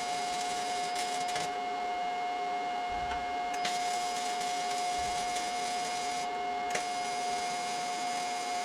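A machine's engine running steadily at constant speed, with a strong steady whine that holds one pitch throughout.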